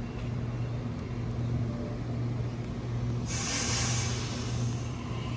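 Sydney Trains double-deck electric train at the platform with a steady low hum, then about three seconds in a sudden loud burst of air hiss from the train as it starts to move off.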